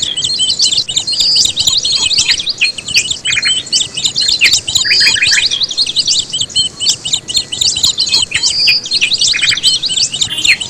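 A dense chorus of many small birds chirping and twittering without pause, the same high chirps and trills recurring every few seconds.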